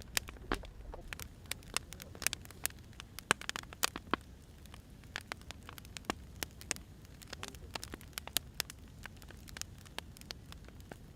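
Firewood burning, crackling with irregular sharp pops and snaps, several a second at times, over a low steady rumble.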